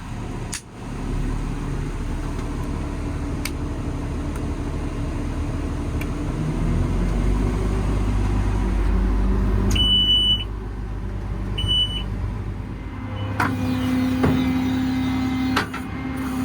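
Paccar PX9 diesel engine of a Peterbilt 337 idling, then idling up to a higher, steady speed as the crane's functions are engaged. Two short high beeps come about ten and twelve seconds in, and a steady hum follows near the end.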